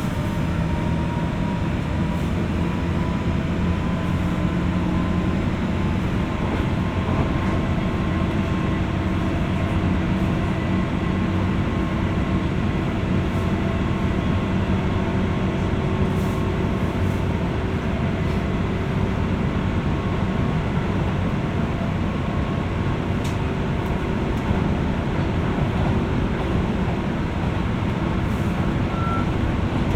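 Running noise inside a JR West 201 series electric train's motor car, heard from above its thyristor armature chopper: a steady rumble of wheels on rail, with a few faint steady tones from the chopper control.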